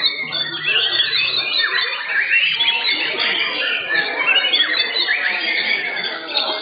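Many white-rumped shamas (murai batu) singing at once: dense, overlapping whistles, trills and quick chirps, loud and continuous.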